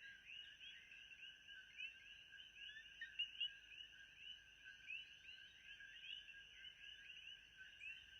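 Faint ambient chorus of many short, overlapping chirping calls, several a second, over a thin steady high tone.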